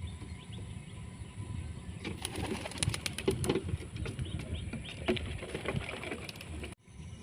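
A flock of homing pigeons cooing and flapping their wings, with a cluster of sharp wing claps about two to three and a half seconds in and again near five seconds, over a low steady rumble.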